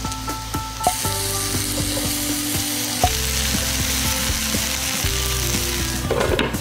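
Potato slices frying in oil in a nonstick frying pan, sizzling steadily. The sizzle comes in sharply about a second in and fades just before the end.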